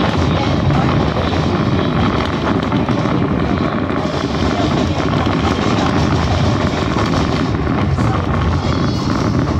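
Passenger train coach rolling along at speed: a steady rumble of wheels on the rails and the car in motion, heard from inside the coach.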